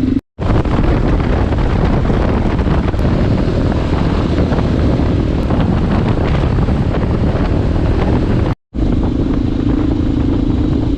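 Motorcycle running under way, engine sound mixed with wind rush on the microphone; the sound cuts out briefly twice, and in the last couple of seconds the engine settles to a steadier drone.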